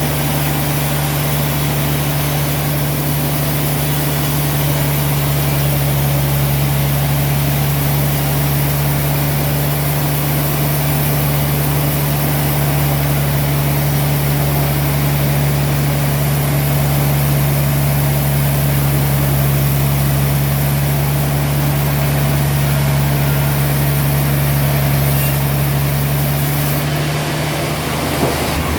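Heavy sawmill machinery running steadily with a constant low hum and no cutting strokes; the sound shifts abruptly near the end.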